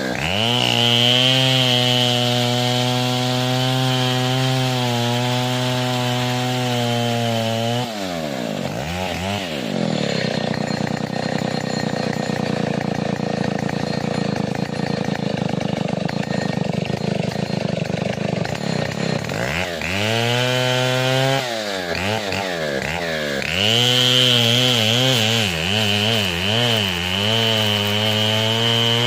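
Stihl 070 two-stroke chainsaw held at high revs, dropping back to a low idle about eight seconds in, then revved up and down a few times before being held at high revs again near the end.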